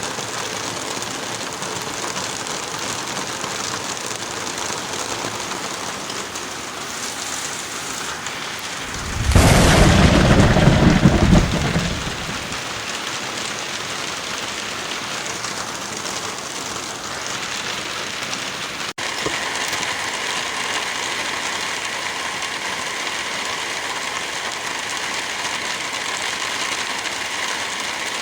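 Heavy rain falling steadily. About nine seconds in, a loud clap of thunder rumbles for about three seconds. Near two-thirds of the way through, the sound breaks off for an instant, and then the rain goes on a little louder.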